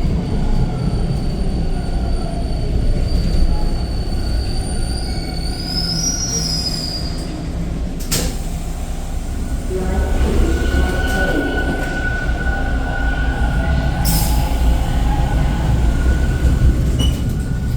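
TTC Line 2 subway train heard from inside the car: a steady low rumble with a high wheel squeal that rises about halfway through. A steady whine follows, and two sharp clicks come several seconds apart.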